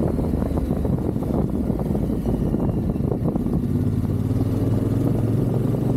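Yamaha Ténéré 700's parallel-twin engine running steadily while the bike is ridden along a road.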